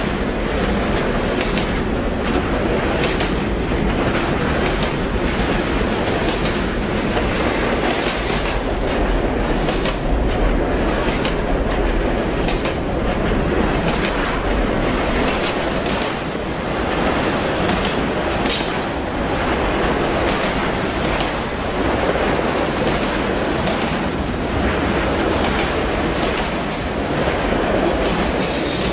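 Freight train cars, double-stack container cars and then autoracks, rolling past close by: a steady loud rumble of steel wheels on rail with irregular clicking and knocking as the wheels pass over the rail joints.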